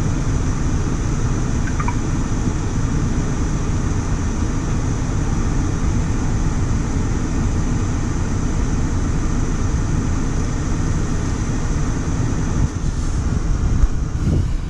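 Steady low rumble and hiss inside a car's cabin with the car running, its ventilation fan on.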